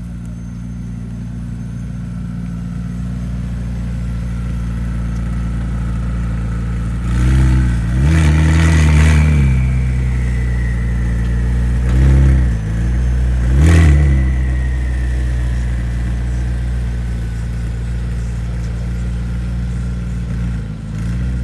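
McLaren twin-turbo V8 supercar engine idling steadily, revved in four quick blips partway through, then settling back to idle.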